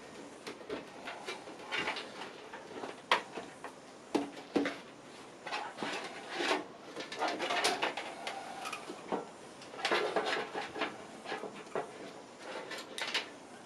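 Hands handling small PC hardware parts and packaging: scattered clicks and knocks of plastic and metal pieces with bursts of rustling.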